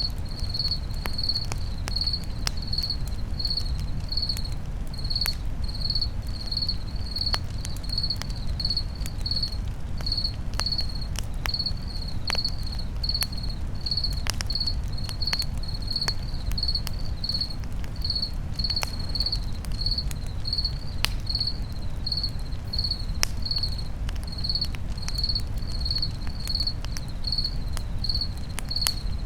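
A cricket chirping steadily, about two chirps a second, over the low rumble of a campfire with scattered sharp crackles and pops.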